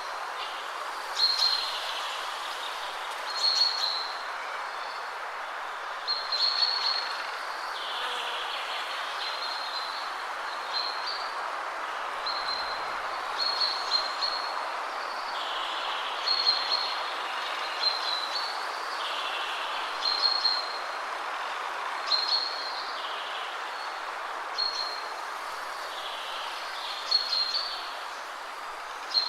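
Steady wind rushing through trees, with songbirds singing short high phrases about every two seconds.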